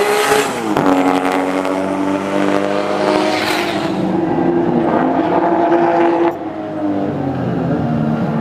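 Nissan Skyline GT-R race car's 2.8-litre RB26 straight-six turbo engine at high revs. The pitch drops sharply about half a second in, then climbs and holds for several seconds before cutting off suddenly about six seconds in and running on lower.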